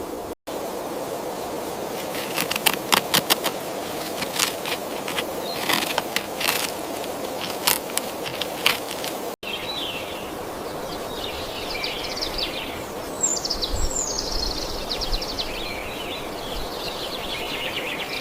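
Forest ambience with a steady background hiss. Sharp clicks and snaps come through the first half. After a brief break about halfway, songbirds start chirping and twittering, with a few quick falling notes.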